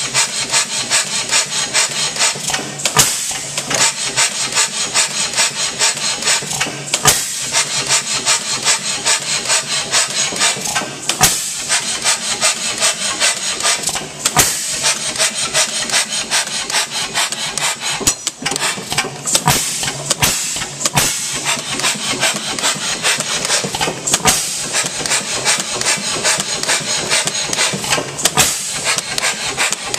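H.M. Spence hit-and-miss gas engine running, with rapid even clicking and clattering from its moving parts and a louder firing stroke every few seconds.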